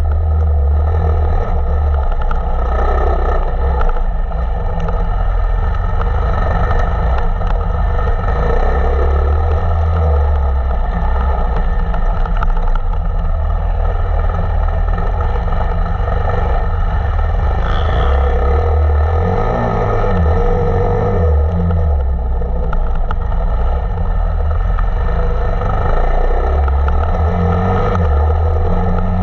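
KTM 525 EXC four-stroke single-cylinder enduro motorcycle engine being ridden, the throttle opening and closing so the engine note rises and falls again and again.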